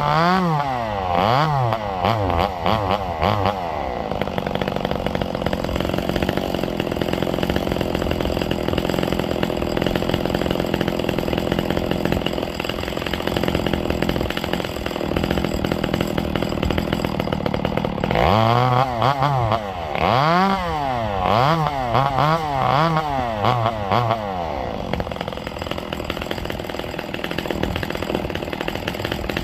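Ported Echo CS-670 two-stroke chainsaw running loud. It is revved in a string of quick throttle blips over the first few seconds and again about two-thirds of the way through, and held at steady revs in between and near the end.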